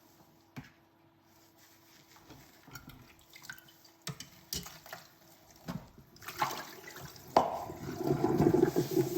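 Dishes clinking lightly in a kitchen sink during hand dishwashing, then the tap comes on about six seconds in and running water splashes onto the dishes, the loudest part of the clip.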